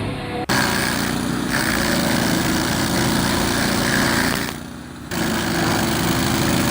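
Bandit stump grinder running hard, its engine and cutter wheel grinding into a large poplar stump. The sound starts abruptly about half a second in and drops briefly about four and a half seconds in.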